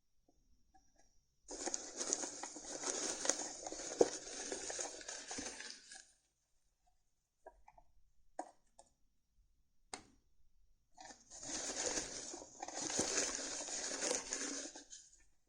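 Tarot cards being shuffled by hand in two spells of a few seconds each, a dense papery crackle, with a sharp click during the first spell and a few light taps between them.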